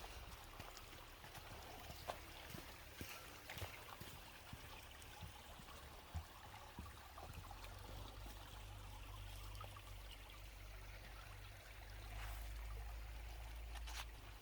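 A creek running with a steady trickling rush. A low rumble joins it from about halfway and is strongest near the end.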